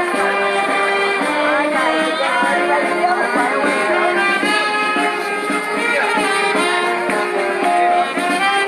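Street brass band playing a tune, horns holding steady notes one after another.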